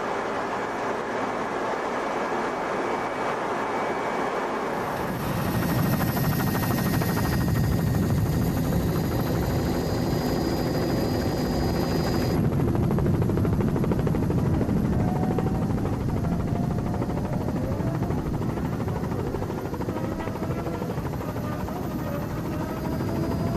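A steady hiss, then about five seconds in a loud, low mechanical rumble with a fast flutter sets in and runs on steadily, with faint rising and falling engine tones behind it.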